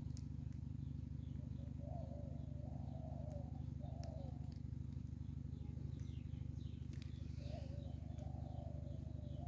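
Birds calling: low cooing phrases come three times, with scattered faint high chirps, over a steady low rumble.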